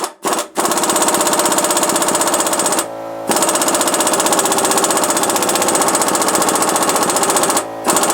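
Ingersoll Rand 3/8-inch air impact wrench hammering in three long runs, with brief pauses between, on a motor mount nut that it fails to break loose on the small compressor's air supply.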